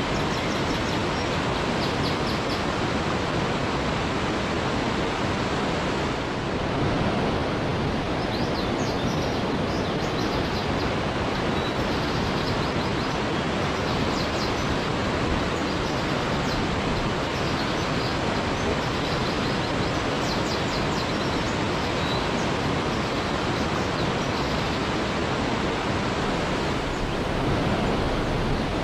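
Waterfall: a steady, even rush of falling water, with a few faint high chirps now and then.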